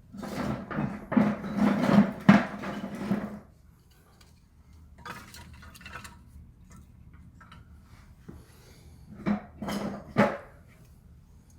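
Split wood kindling sticks clattering and knocking against each other as they are laid onto a stack of firewood logs, a dense run of knocks for the first few seconds, then a couple more knocks near the end.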